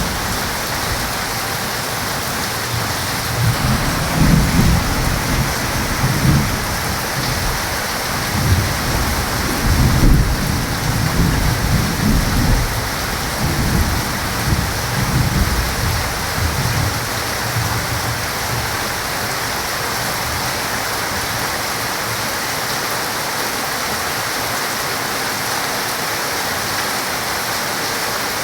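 Heavy rain falling steadily, with a long roll of thunder rumbling through the first half and fading out, leaving only the even hiss of the rain.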